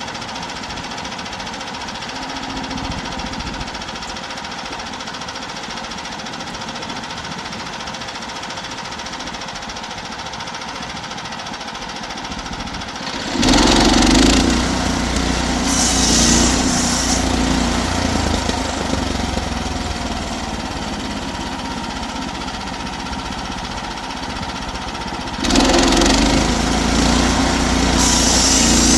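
Portable sawmill's engine running steadily at low speed, then suddenly louder about 13 seconds in, easing back somewhat, and louder again near the end.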